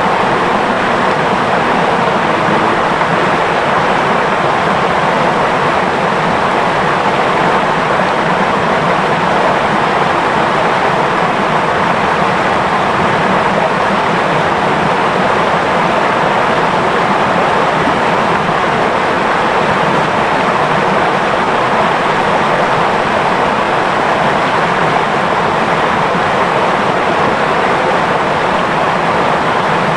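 Clear, shallow river flowing, a steady, unbroken rush and babble of water.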